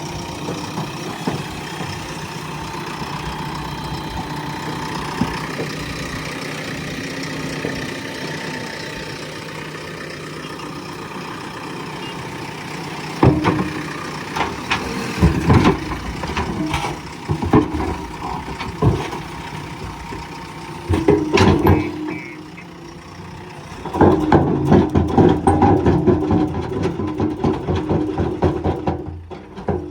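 Diesel engine of a JCB 3DX Plus backhoe loader running steadily. From about halfway, a series of loud clanks and knocks joins it, with a dense run of them near the end.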